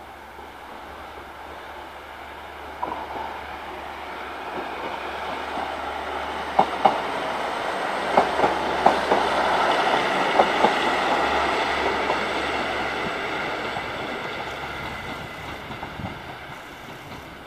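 A Northern diesel multiple unit passing close by, its running noise building up, peaking and fading away. Around the middle a quick series of sharp clacks comes from its wheels crossing the track joints and points.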